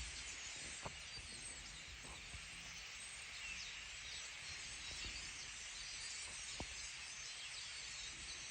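Many small birds chirping and singing over a steady high hiss, with a few faint knocks.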